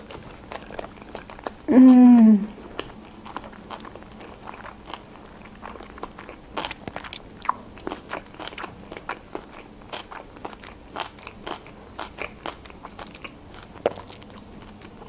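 Close-miked mouth sounds of someone chewing a sushi roll: many small wet clicks and crunches throughout. About two seconds in comes a loud closed-mouth hummed "mmm" of enjoyment, falling slightly in pitch.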